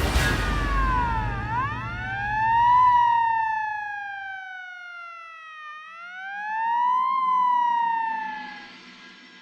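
Police car siren wailing, rising and falling slowly twice and fading away near the end.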